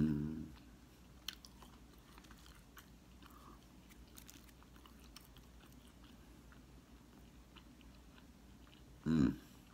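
A person chewing and biting crispy fried perch, with faint scattered crunches and clicks of the mouth. There is a brief vocal sound at the start and again about nine seconds in.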